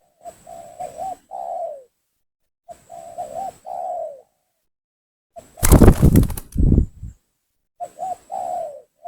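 Spotted dove cooing in repeated phrases, three in all, every two to three seconds; each phrase is a couple of quick short notes followed by a longer falling coo. Between the second and third phrase comes a loud, harsh burst of noise lasting about a second and a half.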